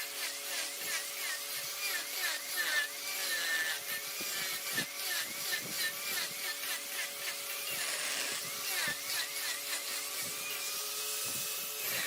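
Large wood lathe running steadily while a turning tool scrapes and cuts the spinning wood, with a wavering high squeal over the machine hum.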